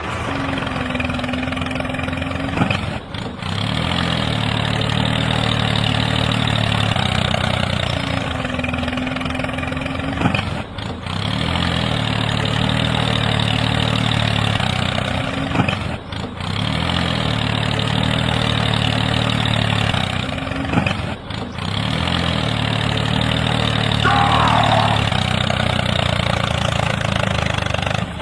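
Engine idling steadily, with a short break every five to seven seconds where the sound drops out briefly and picks up again.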